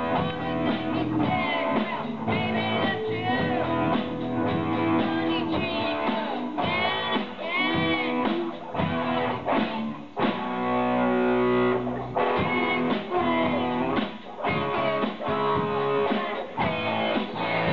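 Live rock band playing, with guitar to the fore over drums, and a held chord ringing out about ten seconds in.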